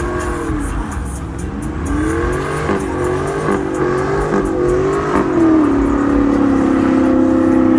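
Car engine revving up and down several times in quick blips, then held at steady high revs from about five and a half seconds in.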